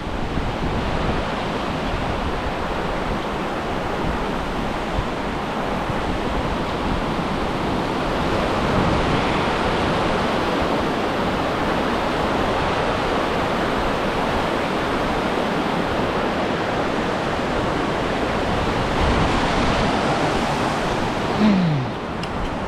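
Steady rushing of a waterfall: a constant, even wash of falling water.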